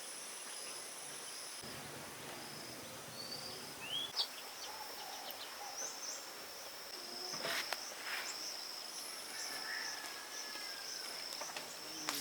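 Rural outdoor ambience: a steady, high insect trill throughout, with a few short bird chirps and a couple of sharp clicks about seven to eight seconds in.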